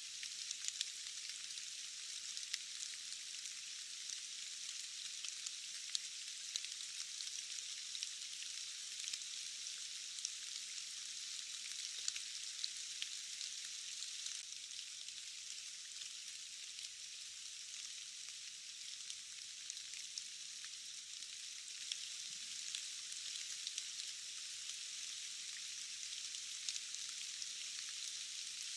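Steady rain falling, an even high hiss dotted with many small, sharp drop ticks, with no low rumble beneath it.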